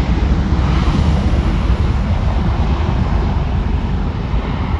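Rolls-Royce Trent 1000 engines of a Boeing 787 Dreamliner at takeoff power: a steady low rumble.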